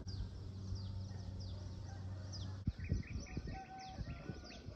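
Birds calling at dawn: short, high, downward-sliding chirps repeating about once or twice a second, with a quick run of rapid chirps around the middle. A steady low hum runs under the first half and stops about halfway through.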